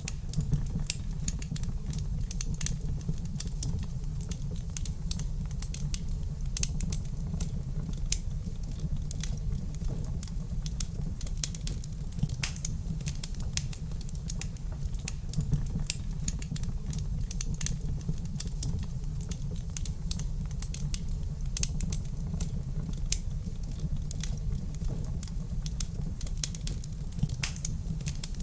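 Wood fire crackling in a fireplace: dense, irregular small pops and snaps over a steady low rumble of the flames.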